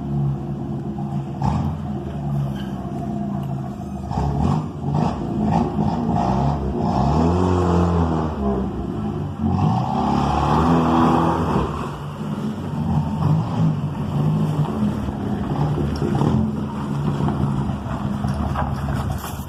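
1972 Chevrolet Opala engine running loud through a straight pipe with no muffler, revved up and back down about halfway through.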